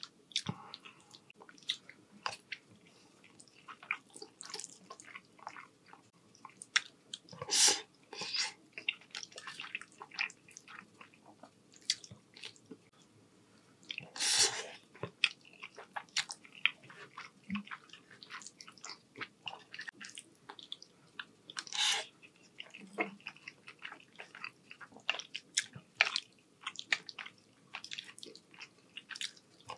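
Close-miked chewing and wet mouth sounds of someone eating rotini pasta with meat sauce: many small clicks and smacks, with three louder wet bursts about 8, 14 and 22 seconds in. A metal fork picks at a ceramic plate now and then.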